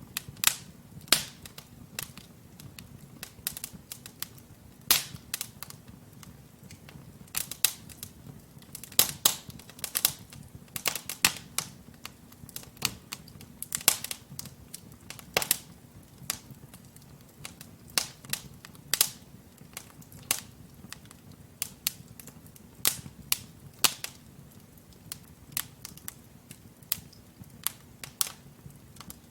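Wood fire of burning logs in a fireplace, crackling with irregular sharp pops and snaps, several a second, over a low steady rush of flame.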